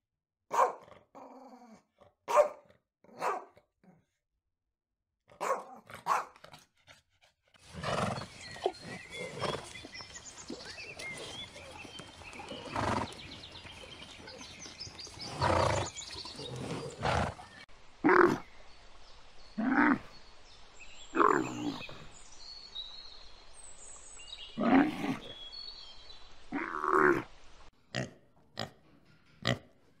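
A run of calls from several different animals: short dog barks at the start, a middle stretch of calls over a steady hiss, and short pig grunts near the end.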